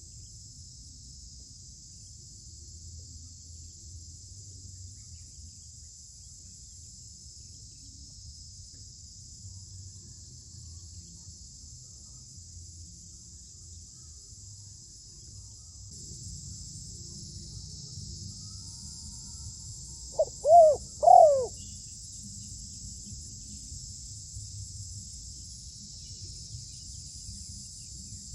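Steady high-pitched insect chorus of crickets. About two-thirds of the way in, a dove gives two short, loud, arched calls close to the microphone.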